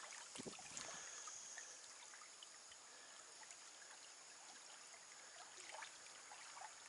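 Faint trickle of moving stream water, with a few soft clicks and a light knock about half a second in.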